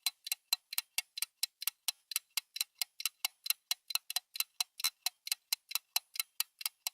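Clock ticking, a quick, even tick about four times a second, used as a thinking-time timer while the listener searches.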